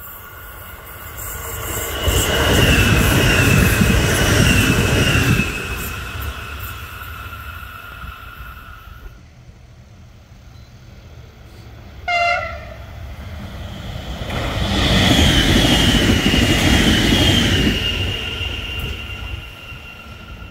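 Trains passing close by on the line, twice, each a swell of wheel-on-rail rumble lasting three or four seconds with a high, wavering whine over it. Between the two passes comes a brief high toot with a falling pitch.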